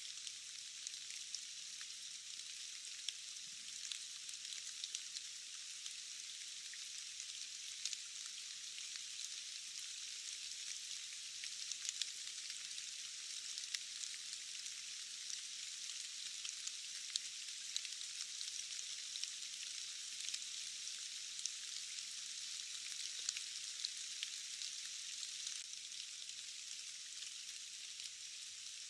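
Steady rain falling, a high, thin hiss with no low rumble, dotted with scattered sharp ticks of individual drops.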